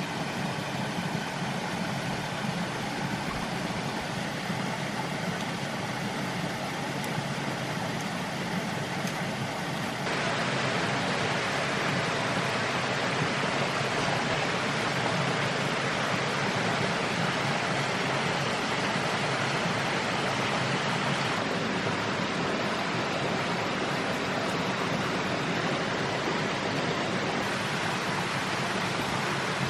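Steady rushing noise with no clear pitch, growing louder and hissier about ten seconds in and changing character again around twenty-one seconds.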